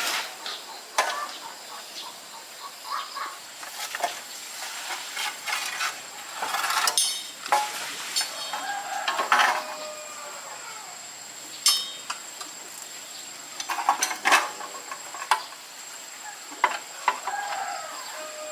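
Irregular clinks and knocks of metal objects being handled, a dozen or so sharp strikes scattered over the stretch. Under them runs a steady thin high insect drone, with a few short calls, probably from chickens.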